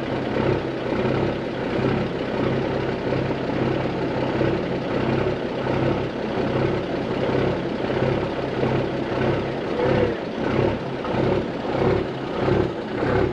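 Kenworth W900A dump truck's diesel engine idling steadily with an even low pulse.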